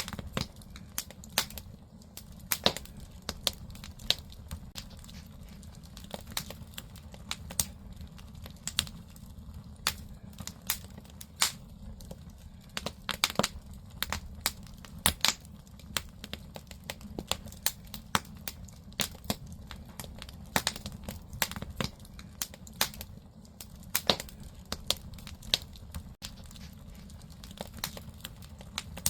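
Firewood burning in a traditional Korean agungi fire hole: frequent, irregular sharp crackles and pops over a steady low rumble of the fire.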